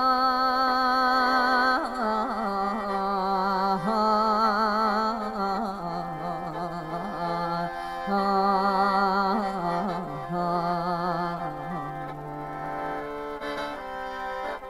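Isan mor lam music: long held, wavering notes with vibrato and slow glides, over the khaen's sustained chord.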